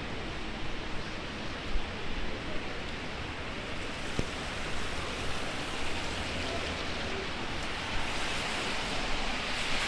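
Heavy rain falling in a steady, dense hiss, with gusty wind rumbling on the microphone. A single brief click about four seconds in.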